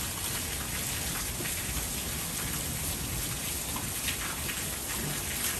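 Heavy rain falling steadily and pattering on surfaces during a thunderstorm.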